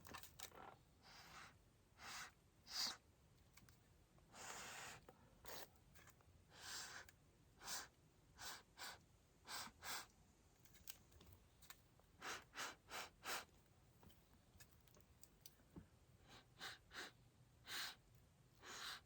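Near silence, broken by faint, short hissy noises every second or so.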